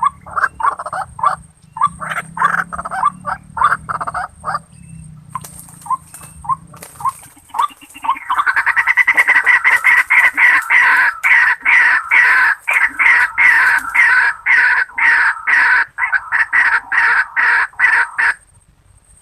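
White-breasted waterhen (ruak-ruak) calling: a string of short repeated notes, then about eight seconds in a long, loud, fast run of calls that stops abruptly near the end.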